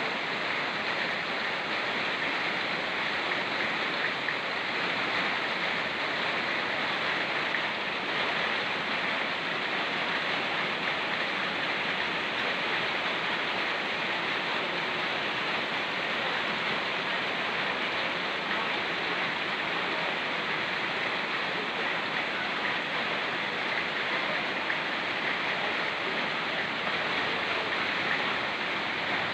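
Rain falling together with a fast-flowing mountain stream: a steady, even rushing hiss without breaks or separate drops standing out.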